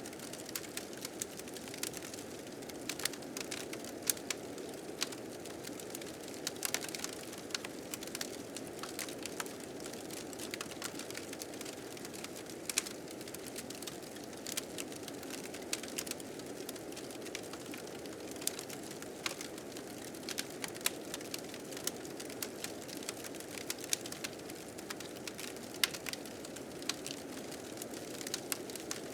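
Fire crackling with irregular sharp pops, over a steady blizzard wind.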